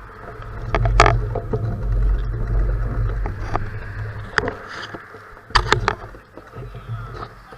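Bicycle riding over gravel: low wind rumble on the microphone and steady tyre noise, with a few sharp clicks or knocks, the loudest about a second in and again about five and a half seconds in.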